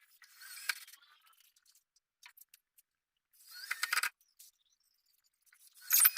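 Three short bursts of scratchy rustling with light clicks: one near the start, one about three and a half seconds in, and one at the end, with quiet between.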